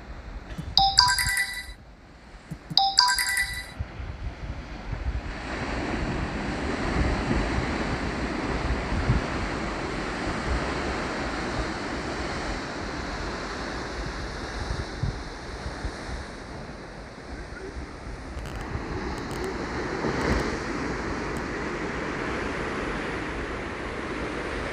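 Ocean surf washing steadily, with wind noise on the microphone. Near the start come two short ringing tones about a second apart, like a chime.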